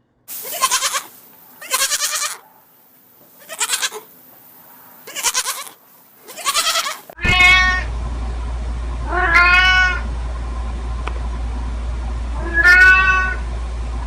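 A series of short, rough animal calls, then a cat meowing three times over a steady low hum; each meow rises and falls in pitch.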